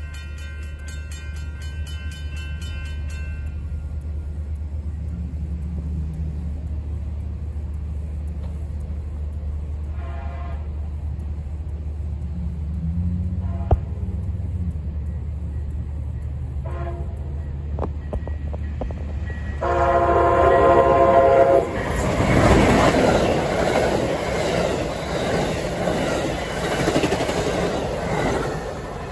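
An Amtrak Siemens ALC-42 Charger locomotive sounds its horn in short blasts as it nears the grade crossing, then a longer blast. The train then rushes past at speed with loud wheel-on-rail noise. A crossing signal bell rings briefly at the start, over a steady low hum.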